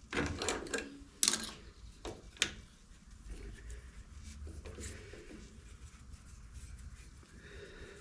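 Tools and parts being handled at a workbench: a handful of knocks and clicks in the first two and a half seconds, then only a faint low hum.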